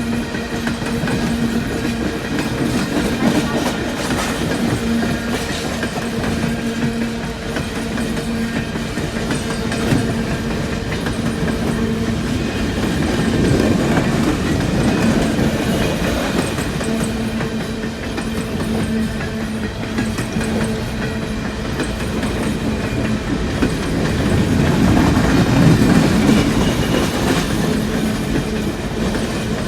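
Empty coal cars of a long freight train rolling past, steel wheels clacking over the rail joints, with a steady low hum that weakens about twelve seconds in.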